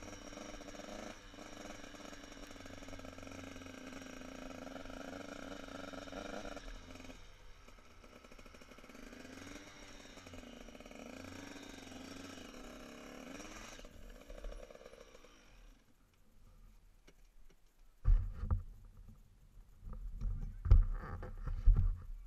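Motocross motorcycle engines running, their pitch rising and falling as the bikes accelerate and back off, fading out about two-thirds of the way through. Near the end, loud low thumps and rumbling on the microphone.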